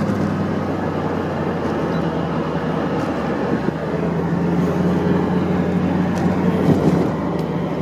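KITT replica Pontiac Trans Am driving at a steady speed: engine running with a constant low hum under road and wind noise, heard from inside the car with the T-tops off.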